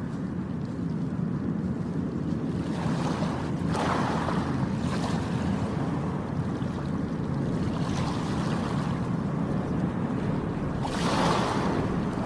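Red Sea waves washing, with louder swells around four seconds in and again near the end, over a steady low rumble of wind and surf.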